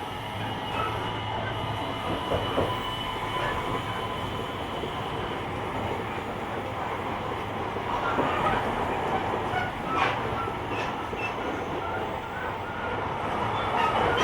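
Running noise of a JR Kyushu 885 series limited-express electric train at speed, heard from the car's deck: a steady rumble of wheels on rail with a thin steady whine. There is a sharp clack about ten seconds in and more knocks near the end, as the wheels pass over rail joints.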